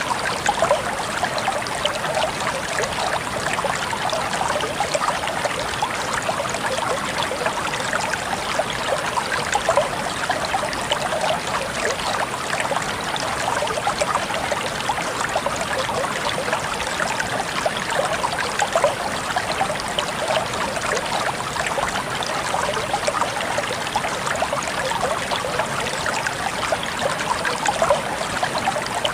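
Stream water flowing and babbling steadily over rocks, a continuous splashing trickle.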